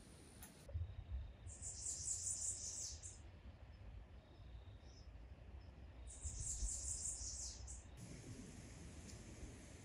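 High-pitched chirping from wildlife, insects or birds, in two bursts of about a second and a half each, over a low rumble.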